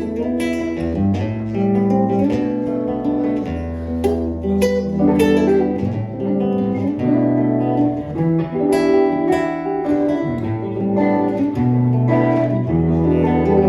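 Acoustic and electric guitars playing an instrumental passage together: strummed chords over a low bass line, with held notes changing every second or so.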